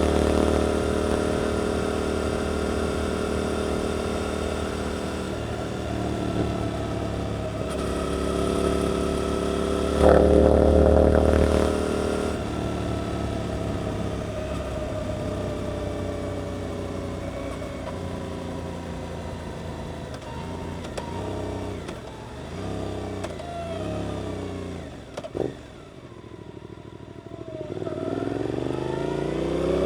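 Suzuki GSX-8S parallel-twin motorcycle engine through an Arrow aftermarket exhaust, riding on the road. It pulls steadily and surges louder about ten seconds in, then the engine pitch falls away slowly as the bike slows. Several quick rises and falls in revs follow, then the revs climb again near the end.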